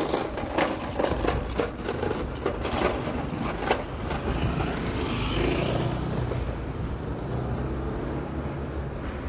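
City street traffic noise, a vehicle passing and swelling a little about five to six seconds in, with sharp knocks in the first few seconds.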